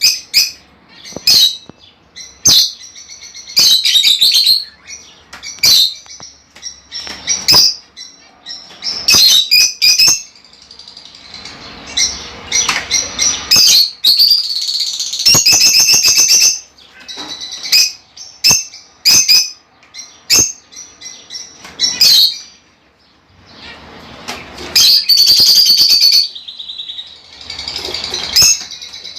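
Budgerigars chirping and chattering loudly in quick sharp calls, broken by longer warbling runs.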